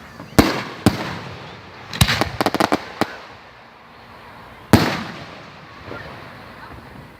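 Fireworks going off: single sharp booms about half a second in and again just before a second, a quick run of crackling pops around two seconds in, and the loudest boom just before five seconds, which trails off slowly.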